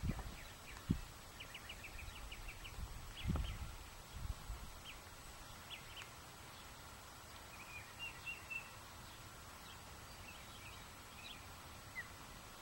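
Scattered short, high bird chirps over faint steady background noise, including a quick run of about eight notes a second and a half in. A couple of low thumps come about one and three seconds in.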